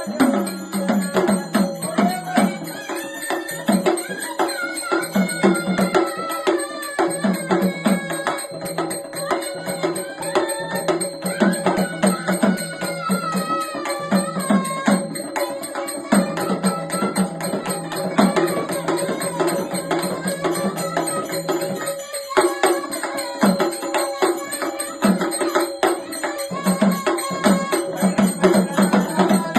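Marathi Gondhali devotional folk music: a gliding melody line over a steady beat of hand percussion, with a brief break about two-thirds of the way through.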